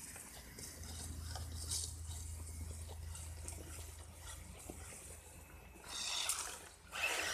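ECX Torment RC truck driving over rough ground, a low rushing and crackling of tyres on dirt and gravel, with two louder bursts of about a second each near the end.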